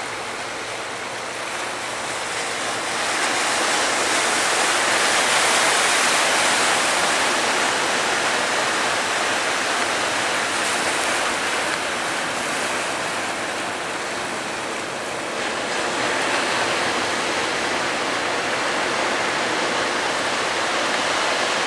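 Big sea waves breaking and washing over the estuary mouth: a steady rush of surf that swells a few seconds in and again about two-thirds through.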